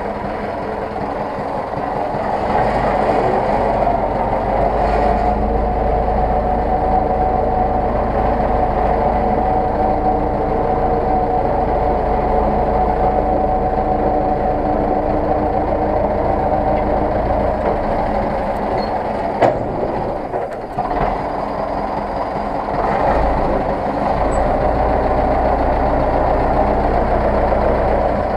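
Zetor 6911 tractor's four-cylinder diesel engine running steadily. It gets louder a couple of seconds in, with one sharp knock about two-thirds of the way through and a brief dip just after.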